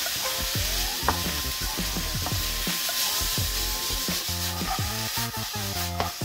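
Diced tomatoes, onion and garlic sizzling in an oiled skillet while a slotted wooden spatula stirs and scrapes them around the pan, over background music.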